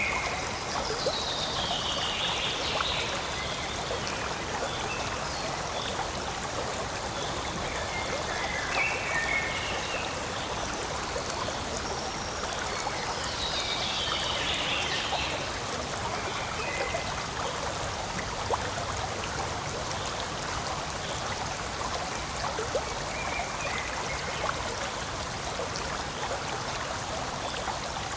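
Forest stream flowing in a steady, even rush of water. A few brief higher-pitched sounds rise over it about a second in, around nine seconds and around fourteen seconds.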